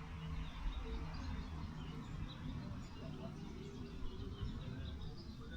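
Small birds chirping now and then over a low, buffeting rumble of wind on the microphone.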